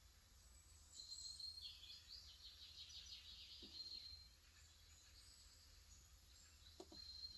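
Faint birdsong: a run of quick high chirps starting about a second in and lasting about three seconds, then a short call again near the end. Two soft, brief low knocks.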